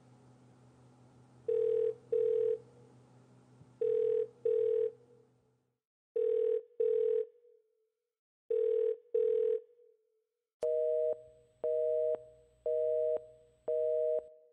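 Telephone ringback tone: four double rings on one steady pitch while the call goes unanswered. About 11 seconds in it changes to a two-note beep repeated about once a second, four times.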